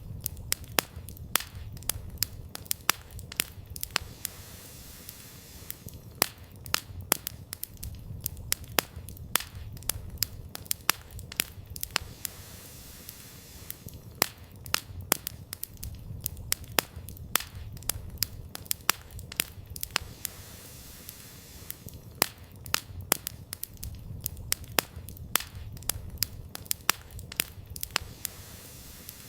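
Campfire burning: firewood crackling with many sharp, irregular pops over a steady low rumble of the flames, the pops coming in clusters with short lulls between.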